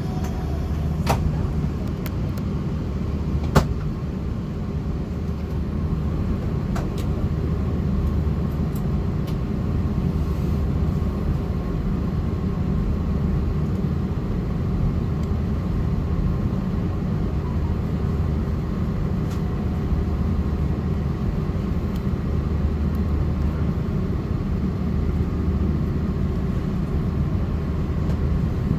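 Steady low rumble inside the cabin of an Airbus A330-900neo on the ground before takeoff, its Rolls-Royce Trent 7000 engines at low power. There are a few faint clicks in the first few seconds, and no rise in engine pitch.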